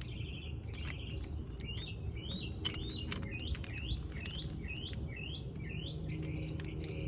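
A small bird singing a run of short rising chirps, about three a second, between buzzy trills. A few sharp metallic clicks and a low background hum sound along with it.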